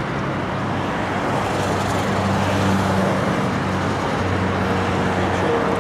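Vehicle engines running amid steady road traffic noise, with a low engine hum that grows stronger in the middle.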